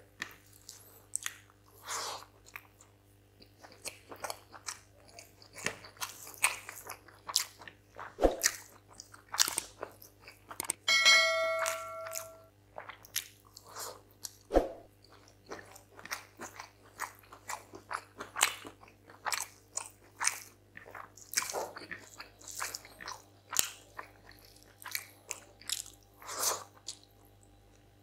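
Close-miked eating sounds: wet chewing and mouth clicks and smacks as rice and chicken curry are eaten by hand. About eleven seconds in comes a short, bright electronic chime, the sound effect of a subscribe-button animation.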